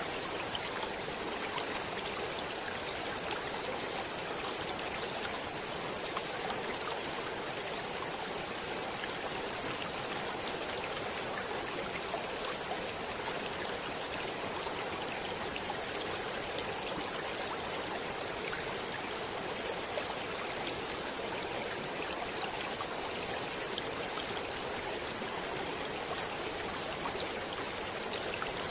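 Stream water flowing and splashing over stones in a steady rush, with fine crackling droplet splashes throughout.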